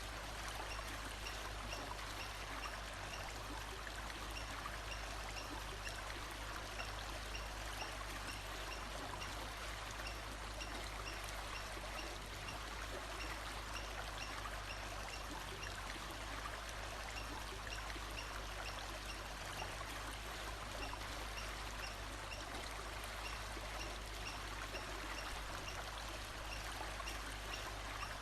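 Steady rush of flowing stream water, with a faint high chirp repeating at an even pace in the background.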